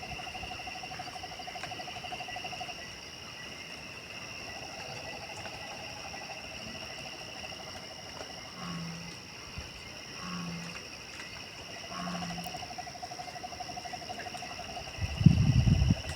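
Night chorus of calling insects and frogs: steady high trills, with a lower pulsing trill that stops and starts. In the middle come three short low hoots about a second and a half apart. Near the end there is a loud low rumble lasting about a second.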